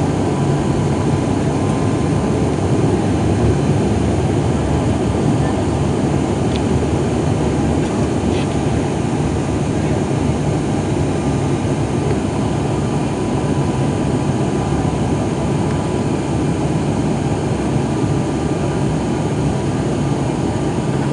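Steady, loud drone of an ATR 72-500's Pratt & Whitney PW127 turboprop engines and propellers, heard from the passenger cabin, with a thin steady whine above the low hum.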